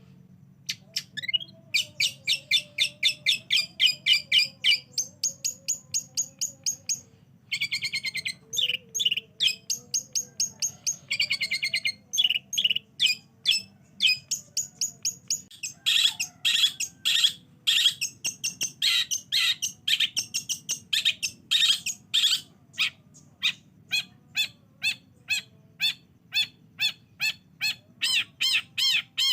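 Long-tailed shrike (cendet) singing a lure song: a fast run of sharp, repeated high notes, broken by quick trills and a stretch of harsher, louder chattering notes about halfway through.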